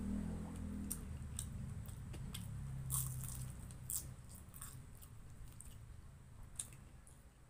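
Close-up crunching and chewing of crisp fried lumpia (spring rolls), with scattered sharp crunches that are strongest about three and four seconds in. Background music fades out in the first second.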